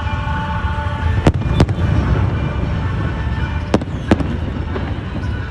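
Aerial fireworks bursting, with four sharp bangs in two close pairs over a continuous low din from the display.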